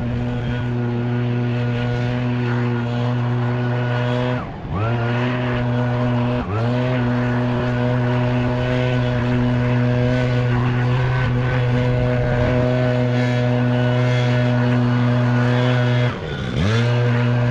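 Leaf blower running at a steady high speed, blowing off a parking lot. Three times, about four and a half seconds in, at six and a half seconds, and near the end, its pitch and loudness dip briefly and come straight back up.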